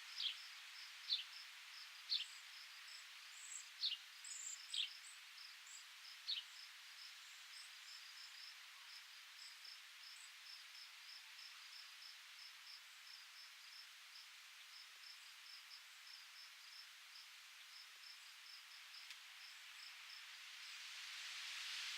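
Faint outdoor wind hiss, with a high chirp repeating evenly about three times a second throughout. During the first six seconds or so a bird gives short, sharp, falling chirps, and a gust of wind swells near the end.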